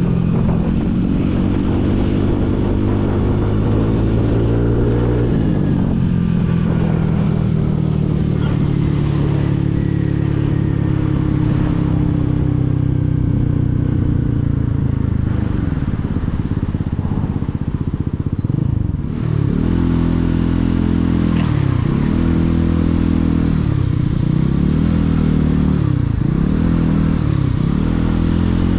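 Motorcycle engine under way, heard from the rider's seat. It climbs in pitch for about five seconds, drops back at a gear change and eases down. In the last third the revs dip and pick up again several times as the bike slows and pulls away in traffic.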